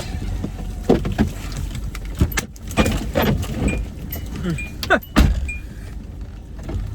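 Chunks of ice falling onto a car and striking its body and glass: a run of sharp knocks and cracks, the loudest about five seconds in. Under them is the steady low hum of the car's engine running.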